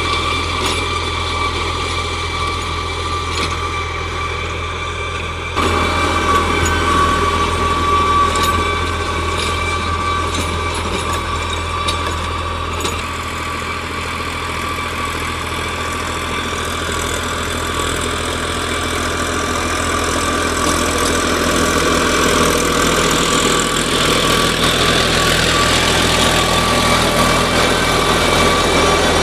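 45 hp New Holland 3600-series tractor running steadily while working an 8-foot rotavator, with a steady high whine over the engine note. The sound steps up in loudness about five and a half seconds in.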